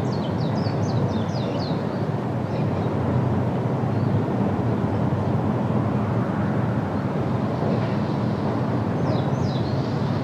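Birds calling in quick, high chirps during the first two seconds and again near the end, over a steady low rushing noise.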